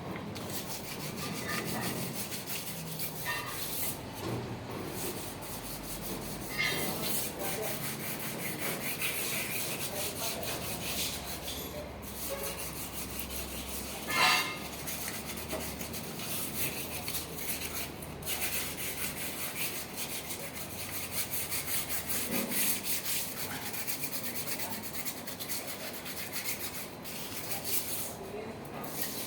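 Continuous scratchy scrubbing of truck engine valve rocker arm parts as they are washed, made up of many short strokes, with one sharp clink about halfway through.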